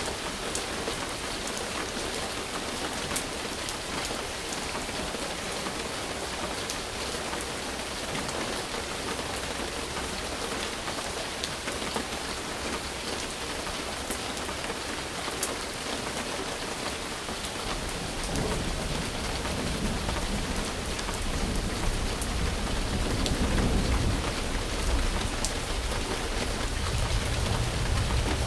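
Steady rain falling, an even hiss with scattered sharp drop ticks. About two-thirds of the way through, a low rolling rumble of thunder sets in and grows louder toward the end.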